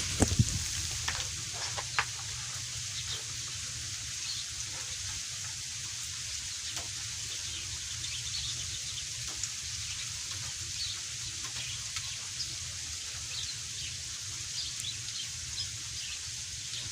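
Freezing rain falling as a steady high hiss, with many small ticks and drips on frozen surfaces. A few louder clicks come in the first two seconds.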